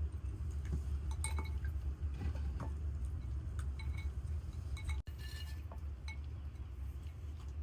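Glass and crockery clinking, scattered light knocks that ring briefly, over a steady low rumble.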